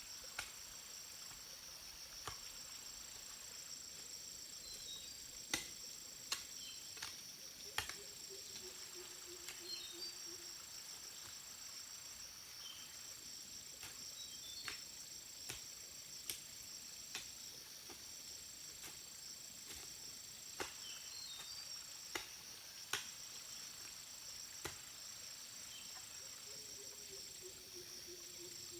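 A steady, high-pitched chorus of insects such as crickets, one thin upper note pausing briefly every few seconds. Scattered sharp clicks sound through it, and twice a low tone slides slowly downward for a couple of seconds.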